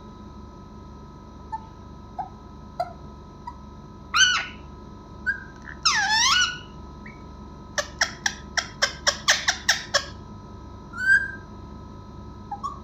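Pet parrot calling: two loud squawks with sweeping pitch, then a quick run of about a dozen short sharp chirps, and a few softer single calls.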